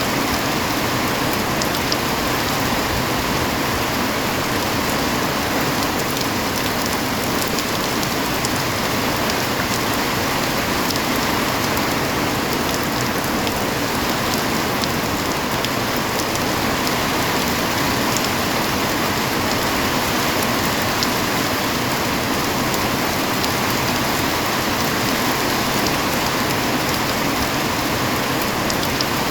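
Heavy rain falling steadily: a dense, even hiss with scattered sharp taps of individual drops.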